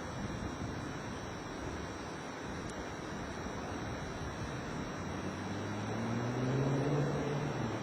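Steady rushing background noise, with an engine's hum rising slowly in pitch and growing louder from about five seconds in.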